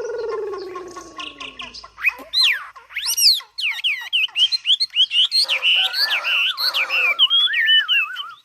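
A caged Mi songbird singing: after a low falling call at the start, a rapid, loud run of varied whistled notes that swoop up and down in pitch, with a lower warbling line joining in the second half.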